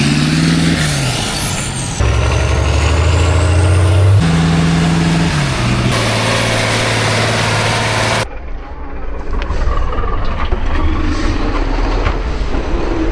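Heavy trial trucks' diesel engines running and revving under load, in short clips that cut abruptly from one to the next. The pitch rises and falls early on, and high sweeping tones run over the first half.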